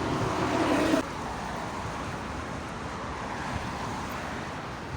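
Steady road traffic noise beside a busy main road, with wind on the microphone. A brief pitched sound in the first second cuts off suddenly.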